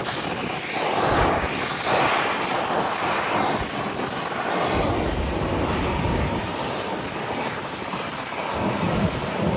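Boeing 787-8 airliner's Rolls-Royce Trent 1000 turbofans at takeoff thrust as it climbs away after lift-off, a steady rush of jet noise, with gusts of wind buffeting the microphone.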